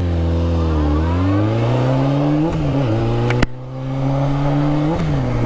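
Honda CBR600F3's inline-four engine pulling hard, its pitch climbing for a couple of seconds. About three and a half seconds in there is a sharp click and the sound drops briefly, then the engine runs on steadily at lower revs.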